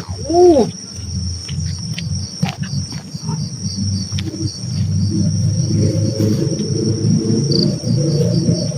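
Crickets chirping steadily at night, under a low rumbling noise that grows louder about halfway through. A short call rises and falls in pitch just after the start.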